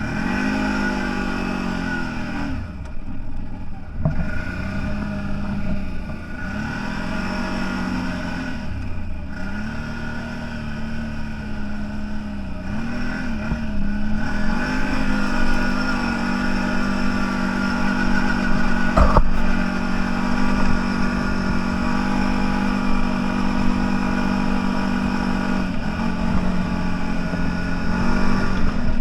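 CFMoto 1000 off-road vehicle's engine running, its revs dropping and rising again several times, then held steady at higher revs. A single sharp knock comes about two-thirds of the way through.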